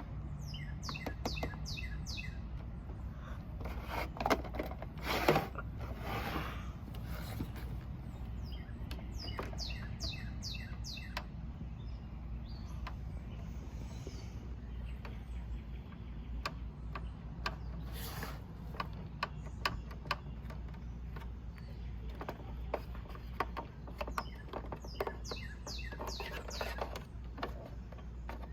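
A songbird sings short bursts of rapid, high, falling notes three times, with scattered clicks and knocks in between over a steady low rumble.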